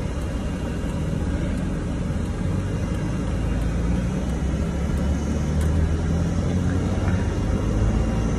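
A 4-cylinder car engine heard from inside the cabin while driving, with a low drone that grows a little louder as the revs rise without the car pulling harder. The engine is shaking from a multiple-cylinder misfire that is traced to a failing ignition coil.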